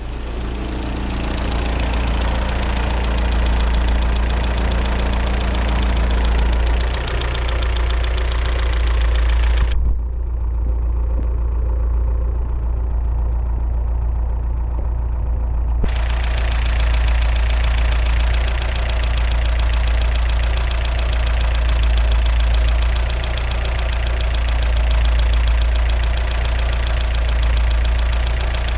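Chevrolet Vectra 2.2 16V four-cylinder engine idling steadily with a mechanical noise, a symptom the owner traced to worn hydraulic lifters and a broken exhaust manifold stud. The sound turns duller for several seconds about ten seconds in.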